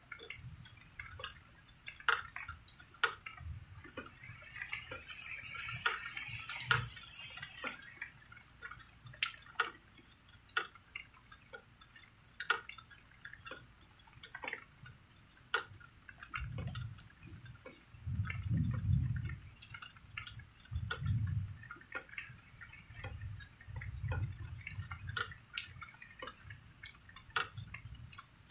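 Rain dripping: separate drops falling at an irregular pace. Low rumbles of thunder come and go in the second half.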